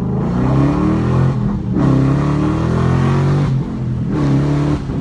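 Ford Mustang GT 5.0 V8 through an MBRP Race Series cat-back exhaust, revving three times, the pitch climbing with each rev and falling back between them.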